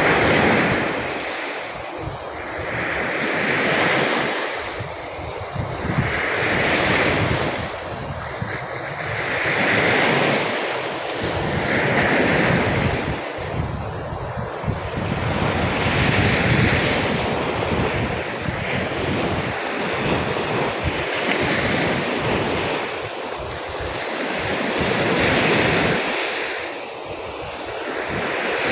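Rough sea surf breaking on a beach, with waves swelling and washing in every three to four seconds, stirred up by an approaching storm. Wind buffets the microphone throughout as a low rumble.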